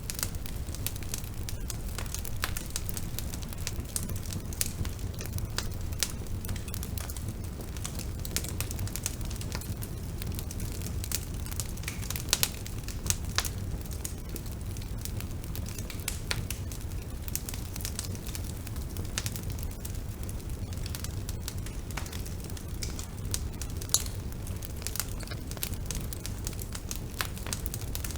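Bonfire burning, with irregular crackles and sharp pops over a steady low rumble; a few pops stand out louder than the rest.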